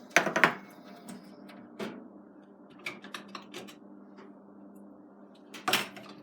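Handling noises: scattered clatters and clicks of objects being picked up and set down, loudest just after the start and again near the end, over a faint steady hum.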